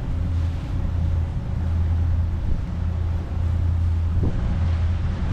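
Motorboat underway: a steady low engine drone with wind buffeting the microphone.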